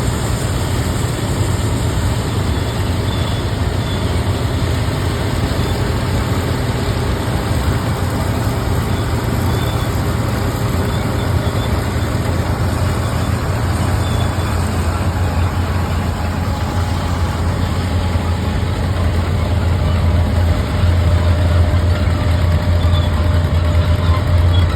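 Antique harvest machinery working a field demonstration: a steady, low engine drone that grows louder near the end.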